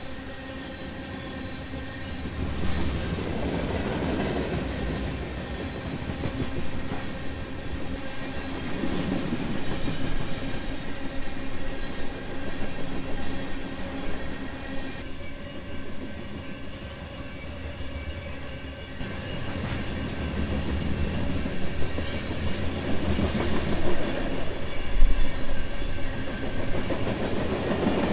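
Freight train rolling past, steel wheels running on the rail with a steady ringing tone, swelling and easing several times as the cars go by.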